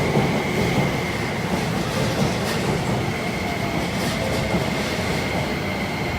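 Saphir Odoriko limited express train running: a steady rumble with a thin, high, steady whine held over it and a few faint clicks.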